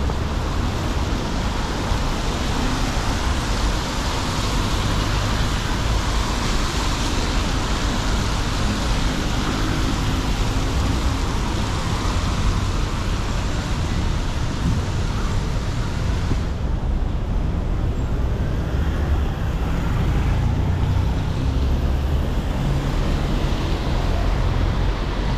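Steady city street traffic on wet roads: car engines rumbling and tyres hissing. The high hiss fades about two thirds of the way in while the low rumble goes on.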